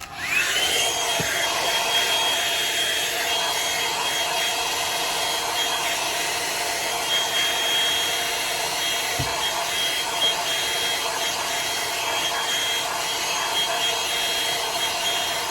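Drybar Double Shot blow-dryer brush switching on: its motor whine rises to a steady high pitch within about half a second, then it runs steadily with a rush of air.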